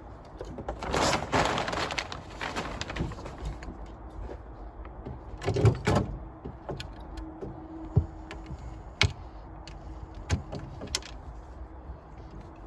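Handling noise from rigging a small sailboat: a stretch of rustling, then a few separate knocks, two close together about halfway through and single ones after.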